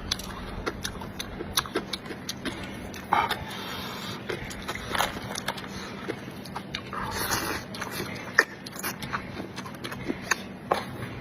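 A person chewing hotpot food close to the microphone, with many short wet mouth clicks and a couple of brief louder bursts of eating noise.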